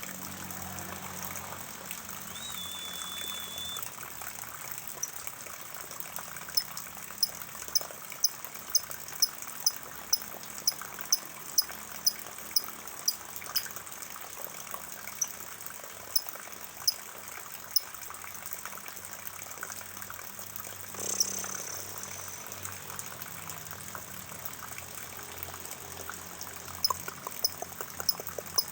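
Rainwater pouring and trickling steadily. Over it comes a run of short, high chirps, about two a second, from about a quarter of the way in to past the middle, and again near the end.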